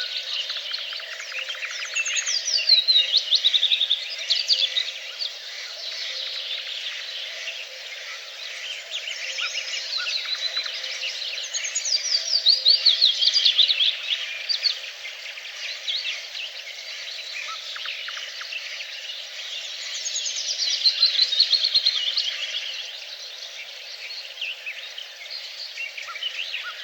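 Songbird singing: a loud, rapid trill that falls in pitch, about two seconds long, repeated three times roughly nine seconds apart. Between the phrases other birds chirp against a steady background of insects.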